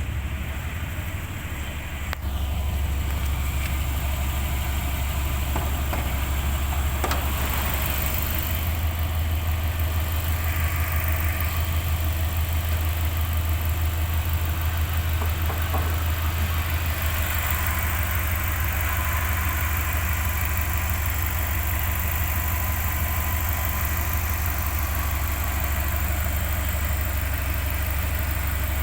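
Subaru Legacy BH5 twin-turbo's 2.0-litre flat-four boxer engine idling with its uneven, lumpy boxer burble, a steady deep pulsing rumble. A knock about two seconds in, after which it runs a little louder.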